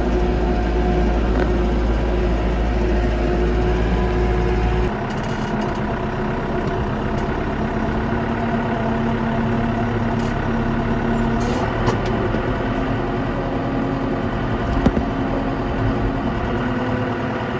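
New Holland tractor's diesel engine running steadily; about five seconds in its note changes to a lower, different pitch.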